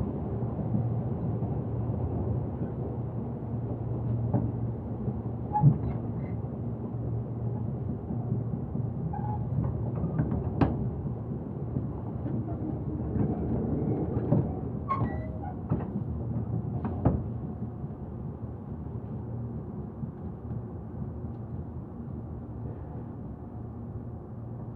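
Cabin of a Tobu Urban Park Line electric commuter train under way: a steady low running rumble with scattered clunks and rattles as the car jolts over the track. The rumble grows quieter over the last several seconds.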